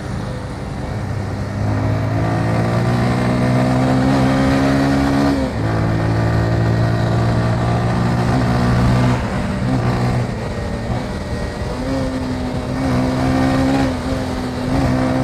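Motorcycle engine pulling under load, its pitch rising for a few seconds, dropping at a gear change about five seconds in, then climbing again before settling to a steadier pitch near the end.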